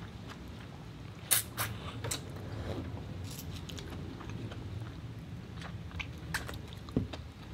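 Close-miked chewing and mouth sounds of a person eating lobster meat, with a few scattered sharp clicks and smacks.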